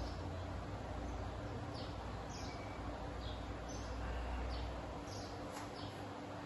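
Small birds chirping: short, high chirps that slide downward, about one or two a second, over a low rumble that fades about five seconds in.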